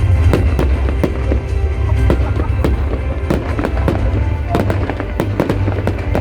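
Fireworks: a dense, irregular run of sharp bangs and crackles, several a second, over a steady low rumble.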